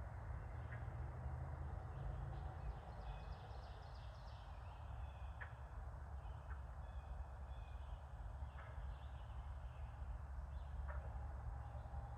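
Faint outdoor wildlife ambience: scattered distant bird chirps and short trills over a steady low rumble.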